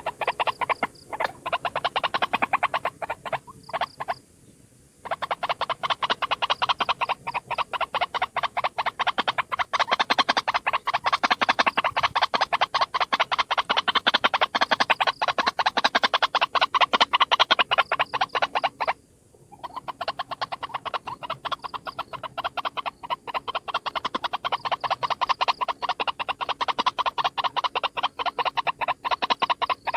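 White-breasted waterhen (ruak-ruak) calling: long runs of rapid, harsh repeated notes, broken by a short pause about four seconds in and another just before the twenty-second mark.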